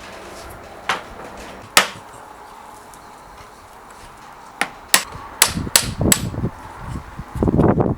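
Hammer blows: two single strikes a second apart, then after a pause a run of five quicker strikes. Near the end a louder, rough, continuous noise begins.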